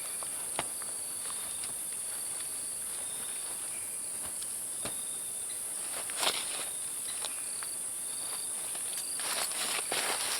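Steady high-pitched chorus of forest insects, with a few short rustles like footsteps on leaf litter, the clearest about six seconds in and near the end.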